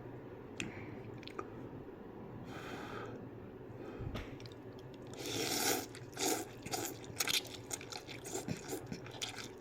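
A man eating bowl ramen noodles, with faint chewing and mouth sounds. About five seconds in there is a louder rush of noise, followed by a run of short chewing clicks.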